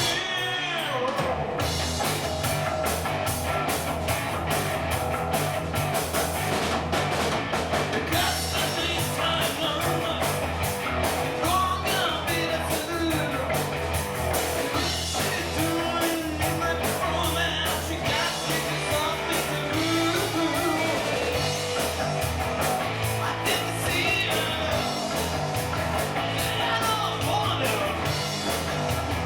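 Rock band playing a song with singing, electric guitar and drum kit; the low end drops out briefly about a second in, then the full band plays on steadily.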